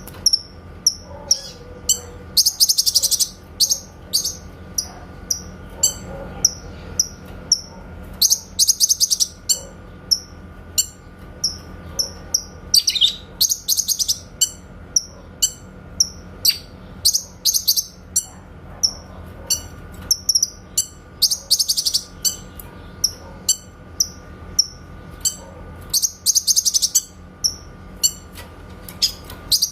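Cucak kinoy songbird repeating short, sharp, clear call notes, its 'tembakan' (shot) call, about one or two a second. Every few seconds it breaks into a rapid high trill. A faint steady hum lies underneath.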